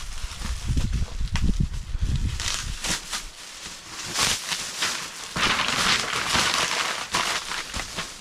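Rustling, crinkling and crackling of packaging and foam floor pads being handled, with low rumbling knocks in the first few seconds before the crinkling takes over.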